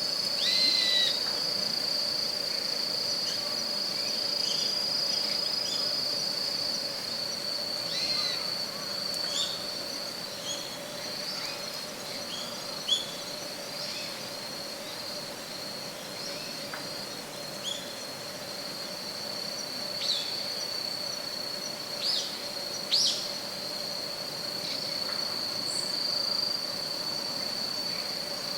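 Autumn woodland ambience: a steady high-pitched insect trill runs throughout, with short bird chirps scattered across it and a few sharp downward-sliding calls, two louder ones close together about 22 to 23 seconds in.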